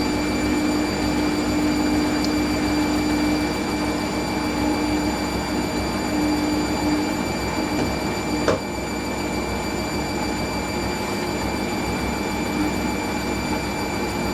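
Hoover SIX Inter@ct Whisper 1600 washing machine spinning its drum on a low intermediate spin of around 400 rpm, a steady motor hum with a faint whine. A single click comes about eight and a half seconds in, after which it runs a little quieter.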